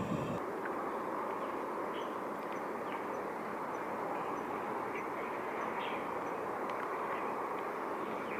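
Steady outdoor background noise, with faint short high chirps scattered through it.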